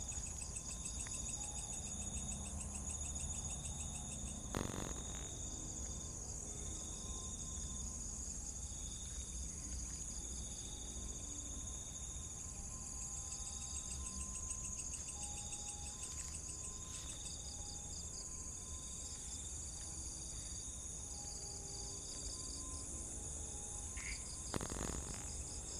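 Night chorus of crickets and other insects: a steady high-pitched trill, with shorter trilled phrases repeating about once a second, over a low rumble. A single knock comes about four and a half seconds in, and another near the end.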